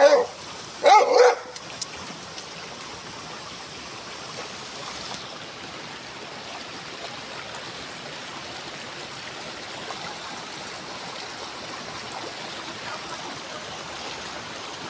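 A pit bull barks twice in quick succession near the start, over the steady rush of a waterfall and stream that carries on alone for the rest of the time.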